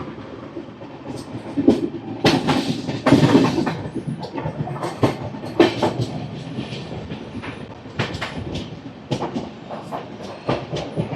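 Train wheels rolling along the track and clattering unevenly over rail joints, with a steady rumble underneath. The source is the 22872 Superfast Express.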